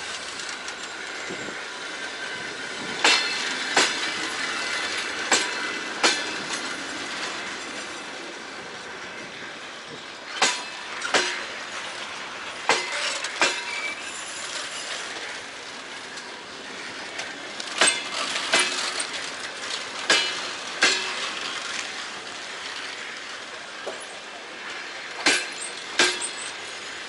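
Railway cars rolling slowly past on the track, the wheels clacking over a rail joint in pairs, the two axles of each bogie, a pair every few seconds, over a steady rolling rumble. A light wheel squeal near the start.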